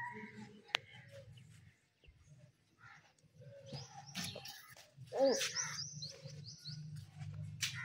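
Caged birds chirping, with a quick run of high, repeated chirps about five seconds in, over scattered light clicks and knocks. A sharp click comes under a second in, as a hand works at a wire bird cage.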